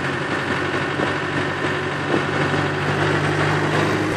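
Car engine running steadily, heard from inside the vehicle's cabin as it drives along on the sand, with a low, even hum.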